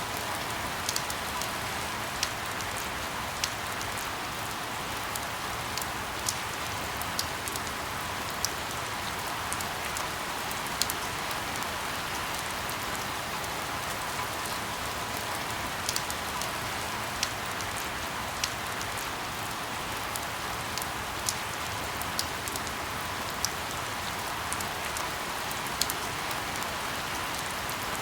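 Steady rain falling, an even hiss with scattered sharp drips landing every second or so.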